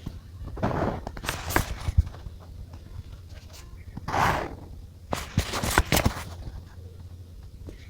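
Desk handling of a paper diary and stationery: short rustles of paper and several small clicks and taps, with a longer rustle about four seconds in.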